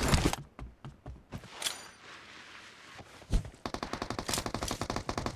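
Video-game gunfire: a single shot at the start and a few scattered shots. Then, a little over three seconds in, a sustained burst of automatic fire at about ten rounds a second.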